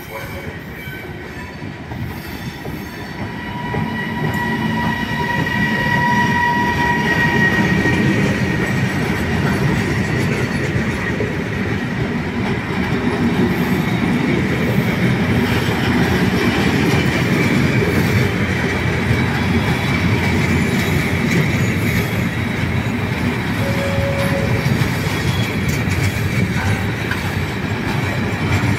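Electric-hauled freight train of open-top container wagons rolling past close by: a steady rumble of steel wheels on the rails that swells as the train draws level about four seconds in, with a high steady whine for a few seconds just after.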